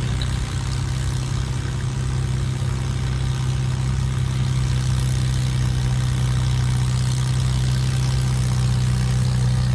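Antique farm tractor engine running at a steady speed, its low hum holding one pitch and growing gradually louder.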